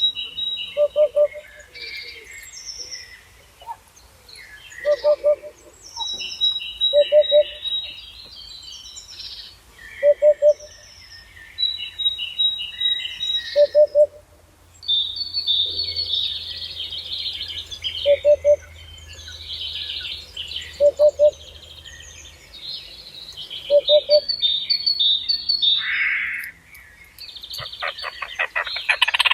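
Several songbirds singing and chirping in overlapping phrases, with a short, low two- or three-note call repeating every few seconds. Near the end a rapid rattling trill.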